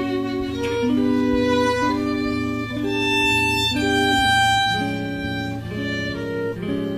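Instrumental break in a song: a violin plays a melody of held notes over a steady low accompaniment.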